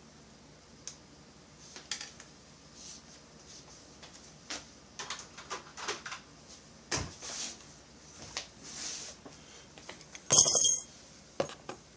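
Small metal chainsaw parts and tools clicking and clinking as they are handled on a workbench, with a louder ringing metallic clatter a little before the end.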